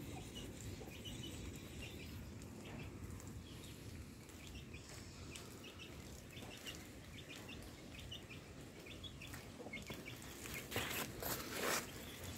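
Small birds chirping, many short high chirps scattered throughout over a low steady rumble, with two brief loud noisy bursts about eleven seconds in.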